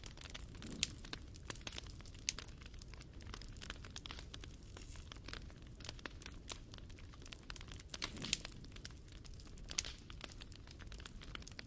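Wood fire crackling: dense, irregular small pops and snaps over a low steady rumble, with a few sharper, louder snaps scattered through.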